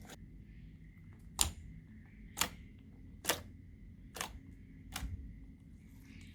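Slime being pressed or poked, giving five sharp popping clicks about a second apart, over a faint steady high-pitched whine.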